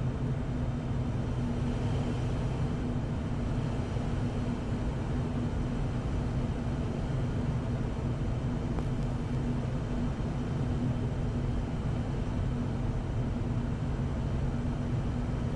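Steady cockpit noise of a jet on final approach: an even rush of airflow with a constant low engine hum underneath.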